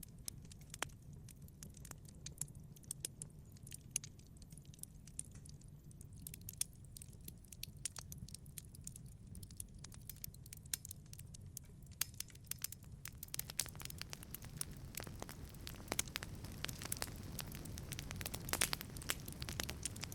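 Wood fire crackling in a wood-fired pizza oven: scattered sharp pops over a low steady rumble, the pops growing denser and louder with a rising hiss of flame about two-thirds of the way in.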